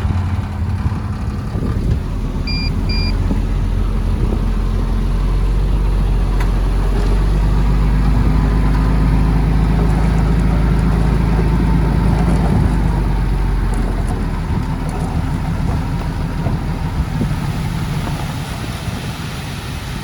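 Heavy diesel engine of earthmoving machinery running steadily under load, growing louder partway through and then easing off. Two short high beeps sound about two and a half seconds in.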